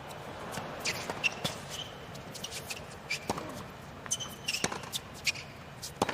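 Tennis rally on a hard court: sharp pops of racket strikes and ball bounces, irregularly spaced and sometimes in quick pairs.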